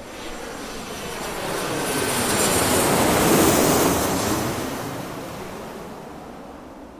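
Airplane engine noise that swells to a loud peak about three seconds in, then fades away.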